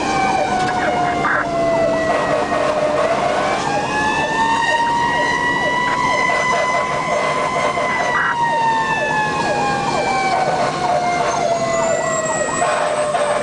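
Fire engine siren wailing: one slow wail that falls in pitch over the first few seconds, climbs back up and holds, then falls again near the end. Many quick, short chirping sweeps repeat underneath it.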